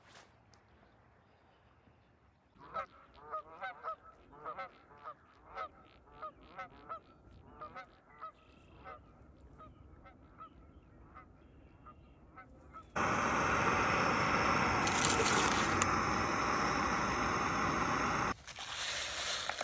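Geese honking, a long run of repeated calls that fades over about ten seconds. Then a loud steady rushing noise starts suddenly and cuts off about five seconds later.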